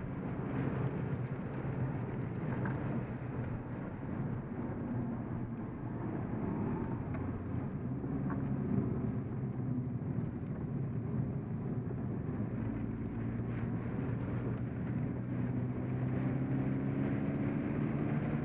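SEAT Ibiza TDI's turbodiesel engine heard from inside the cabin under way, with tyre and road noise on a wet track. The engine note climbs in pitch over the last few seconds as the car accelerates.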